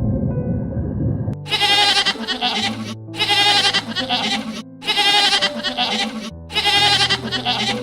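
A goat or sheep bleating: four long, wavering bleats in a row, starting about a second and a half in and following one another with only short pauses, over steady background music.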